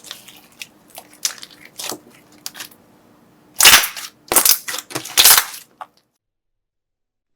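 Slime being handled for ASMR: light crackling, then three loud crunches a little under a second apart, then the sound cuts off suddenly.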